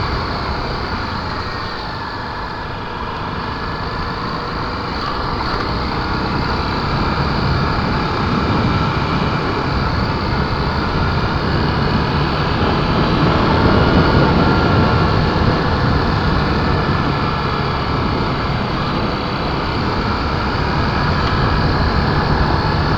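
Honda XR250 Tornado's single-cylinder four-stroke engine running while the bike rides along a dirt road, its note rising and easing slightly now and then, with wind and road noise on the camera's microphone.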